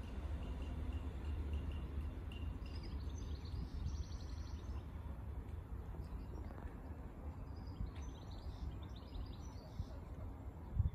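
Quiet outdoor ambience: small birds chirping in short runs, over a steady low rumble.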